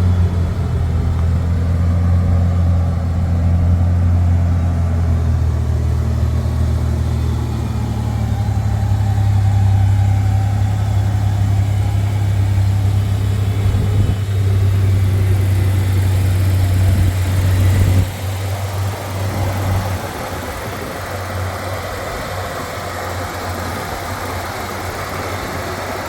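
1988 Ford Bronco II's 2.9-litre V6 idling steadily shortly after a cold start. Its sound turns quieter about 18 seconds in and stays that way.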